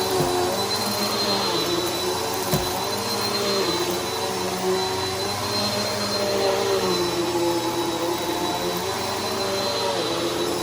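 Bissell PowerForce Helix upright vacuum cleaner running steadily with a high motor whine, its pitch wavering slightly, with a brief sharp click about two and a half seconds in.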